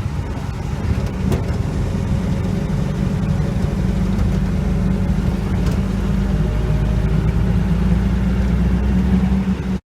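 Volkswagen Kübelwagen Typ 82's air-cooled flat-four engine running steadily; the sound cuts off suddenly near the end.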